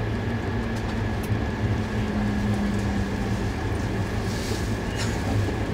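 E2-series Shinkansen running, heard from inside the passenger car: a steady low rumble and rushing noise, with a faint high whine held steady throughout.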